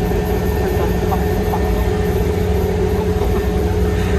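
Farm machinery engine running steadily at a constant speed, with a steady whine over the engine drone.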